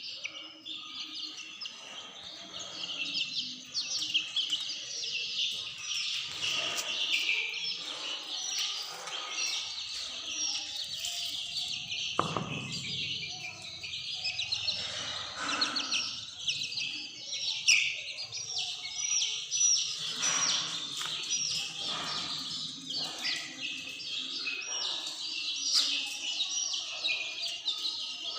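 A flock of domestic chicks peeping, many shrill, high chirps overlapping without pause.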